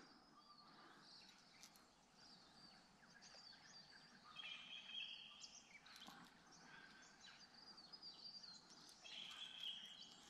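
Faint birdsong: scattered chirps and two held whistled notes, about four and a half and nine seconds in.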